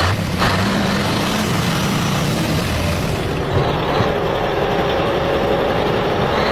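A vehicle engine running steadily, a continuous rumble like a truck's; about halfway through the high hiss above it thins out.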